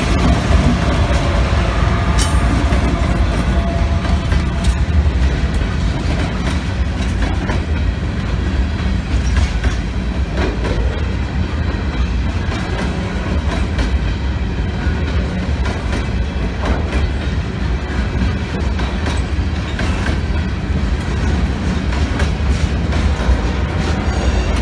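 Freight train rolling past close by: open-top hopper cars going by, their steel wheels rumbling steadily and clacking over the rail joints.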